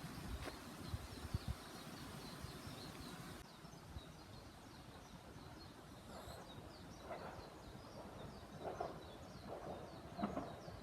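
Birds chirping in a rapid run of short, high falling notes over faint woodland background noise. In the last few seconds a diesel railcar begins to be heard approaching, faint and uneven.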